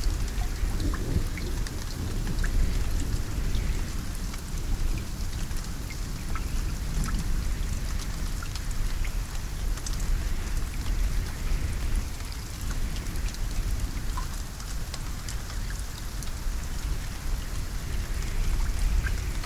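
Steady rainfall, with many separate drops ticking on a surface over an even hiss, and a low rumble of thunder underneath that swells a little near the end.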